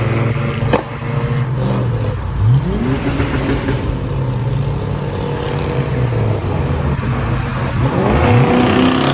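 Car engines running, with a quick rising rev about two and a half seconds in and another near the end; a sharp click just under a second in.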